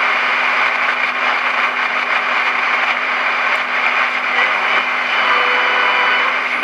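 Static hiss from the Marconi 2004 transistor radio's speaker, tuned off a station on the AM band, with a steady low hum under it. Faint whistles come and go in the second half.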